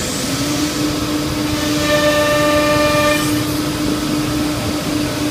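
C.R. Onsrud Panel Pro CNC router running: a steady whine that rises to pitch in the first half second and then holds, with a second, higher whine joining for about a second around two seconds in.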